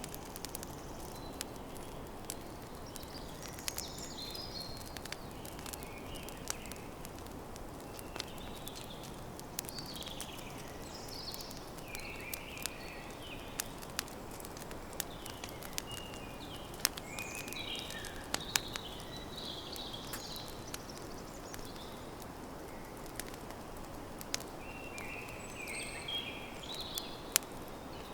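Campfire crackling, with scattered sharp pops over a steady low hiss, a few of them louder, while birds chirp in short phrases throughout.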